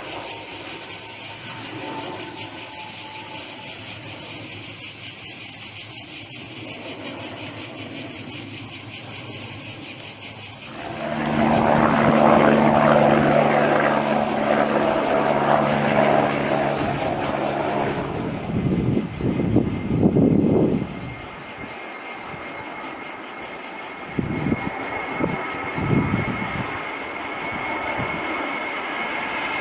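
Airliner jet engines passing. They are loudest from about eleven to eighteen seconds in, with a steady drone and low tones, then fade into an uneven low rumble.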